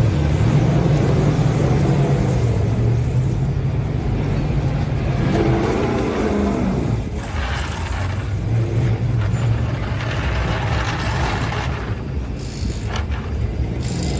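Race truck engines running with a steady low drone; about five to seven seconds in, one engine's pitch falls as it slows or passes by.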